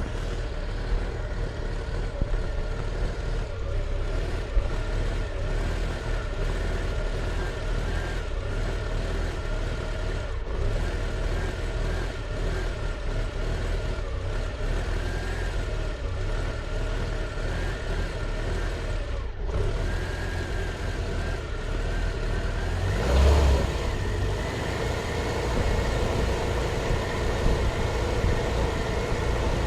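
Volvo 340's B14.4E 1.4-litre four-cylinder engine idling roughly and unevenly, a rough idle caused by dirt in the carburettor's idle solenoid. Near the end it gives a brief louder surge, then settles at a slightly higher idle.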